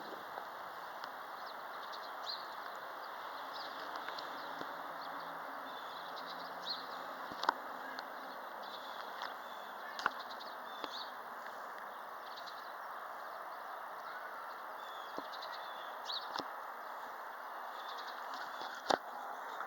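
Strong wind blowing steadily, a continuous rushing, with small birds chirping throughout and a few sharp clicks, the loudest near the end.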